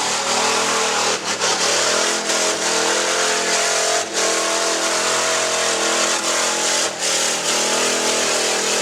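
Stock truck's engine revving hard under load, its pitch rising and falling, with brief drops at about one, four and seven seconds.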